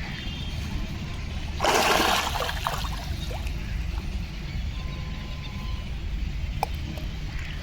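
Water splashing once, briefly and loudly, about two seconds in, typical of a fish breaking the surface for food. A steady low rumble runs underneath, with a few faint small splashes or clicks.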